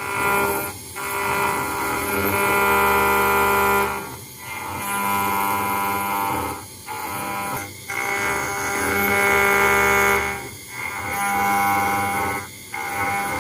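CNC router spindle running with a 1 mm ball-nose cutter engraving a brass plate: a steady whine made of many tones, dropping away briefly about six times at uneven intervals.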